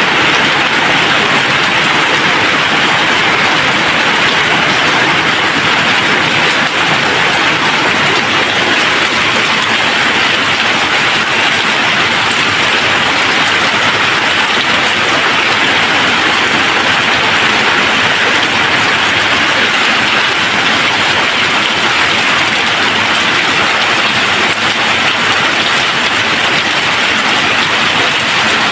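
Steady, even rain, with no thunder or separate drops standing out.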